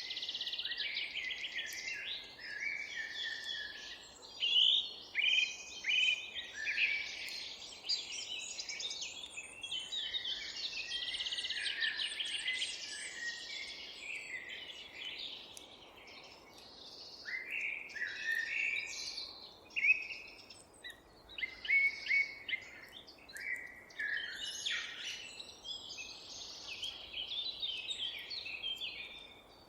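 Many songbirds singing and calling at once, their phrases overlapping, over a faint steady background noise.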